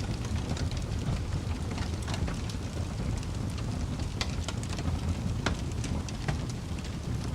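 Fire crackling: irregular sharp pops and snaps, a few louder ones standing out, over a steady low rumble of the flames.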